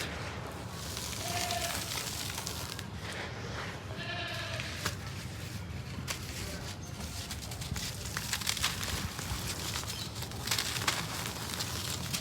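Gritty dry cement crumbling and sifting, a dense crackle of small grains and clicks. Two short pitched calls sound in the background about one and a half and four seconds in.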